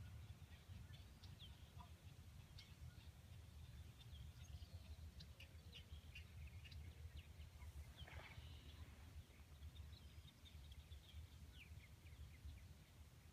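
Faint, scattered short bird chirps, some sliding down in pitch, over a low steady rumble, with a brief rustle about eight seconds in.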